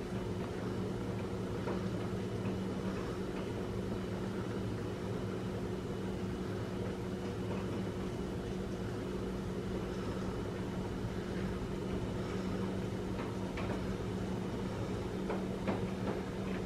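Rain running off a porch roof edge and splashing onto paving stones, heard as a steady hiss over a constant low hum, with a few faint drip taps near the end.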